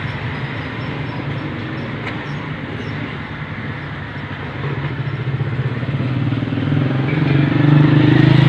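Motor vehicle engine running close by, its low hum growing louder over the second half, over the general noise of road traffic.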